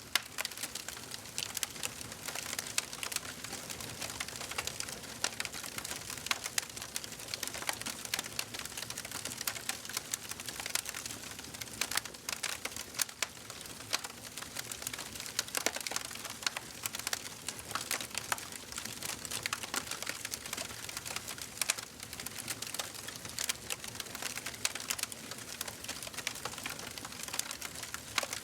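Wood fire burning in a fireplace, crackling and popping with many small irregular snaps over a soft steady hiss.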